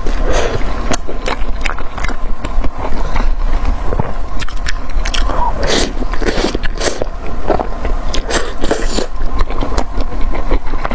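Close-miked eating: irregular bites and chewing of fried skewered food, with many sharp crunchy clicks and a steady low hum underneath.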